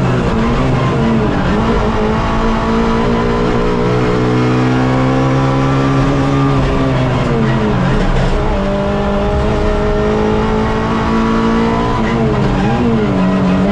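Onboard sound of a Suzuki Swift race car's engine under hard driving, heard from inside the car. The engine note climbs and drops several times as the driver works through the gears, with a longer fall in pitch about halfway through before it climbs again.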